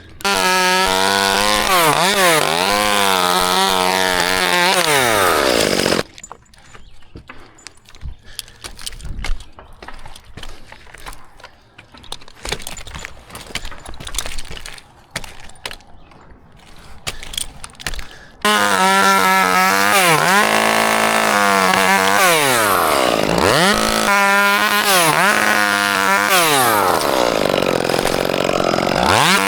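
Gas chainsaw running and cutting, its engine pitch rising and falling as it revs under load. About six seconds in it stops for roughly twelve seconds, leaving only scattered knocks and clicks, then runs again.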